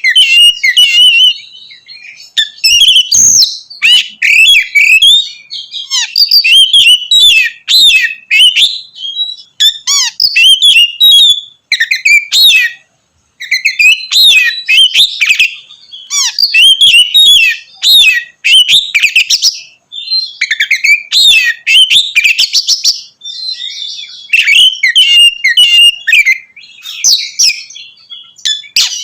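Oriental magpie-robin (kacer) singing a loud, varied song of quick whistled notes and harsher rasping phrases, in bursts with short pauses between them and a brief break about thirteen seconds in. This is the bird in full 'ngeplong' song, the kind of rousing song used to provoke other kacer to sing.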